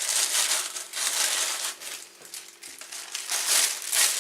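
Plastic packaging being pulled out and crumpled by hand, a crinkling rustle in several surges, loudest at the start and again near the end.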